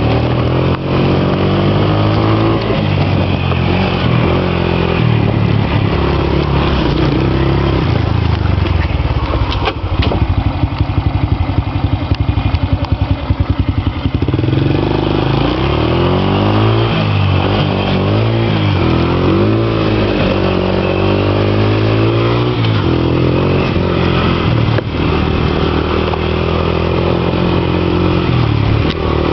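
Motorcycle engine running under way, its pitch rising and falling again and again with the throttle. For a few seconds near the middle it settles into a low, rapid, even pulsing, like an idle.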